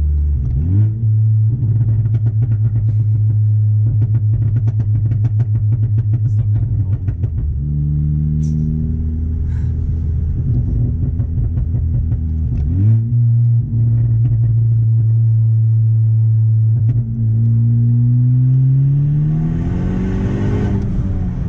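Turbocharged four-cylinder car engine heard from inside the cabin under way. Its revs climb and settle several times, with a long rising pull in the last few seconds that drops sharply right at the end as it shifts up.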